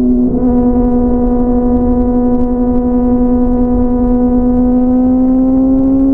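Inline-four sport motorcycle engine cruising at freeway speed with a steady high drone, dipping briefly about a third of a second in and then holding, its pitch creeping slightly up near the end, over a low rumble of wind and road noise.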